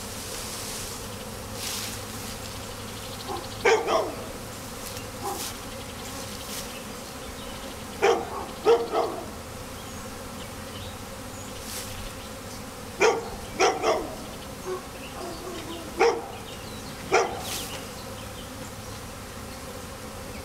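A honey bee swarm buzzing as a steady hum. Loud, short sharp sounds break in every four or five seconds, often in pairs.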